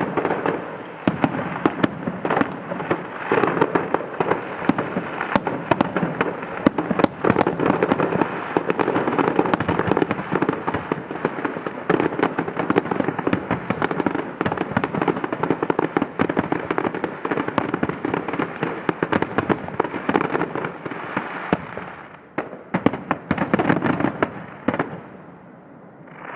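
Fireworks display: a dense, continuous barrage of bangs and crackle. It thins out about 22 seconds in to a few last bangs, then fades.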